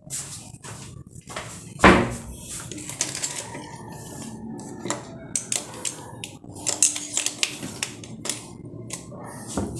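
Scattered clicks, taps and clinks of tools and small metal parts being handled during washing machine repair work, with one louder knock about two seconds in.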